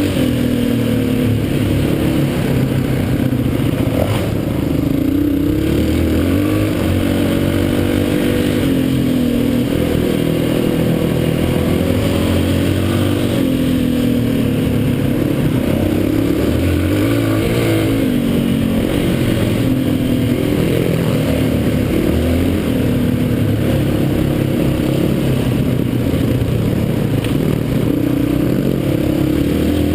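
Dirt bike engine running as it is ridden, its revs rising and falling every second or two.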